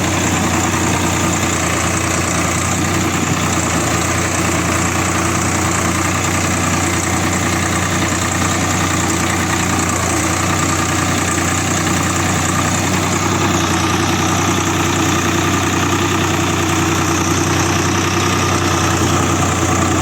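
Heavy diesel engine idling steadily at an even, unchanging speed.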